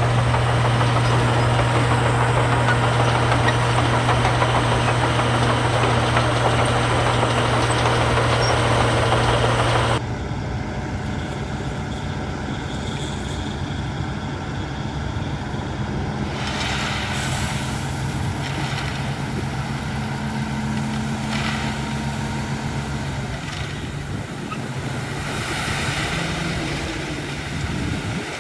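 Heavy diesel engines of earthmoving machinery running steadily, with a strong low hum for about the first ten seconds. The sound then changes abruptly to a quieter engine drone with a few short scraping or rattling flares.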